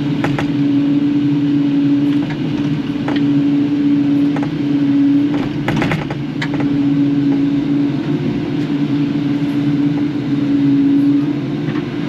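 Kubota KX080-4 excavator's diesel engine running under working load, its drone swelling and easing every couple of seconds as the machine works, with a few short sharp knocks scattered through.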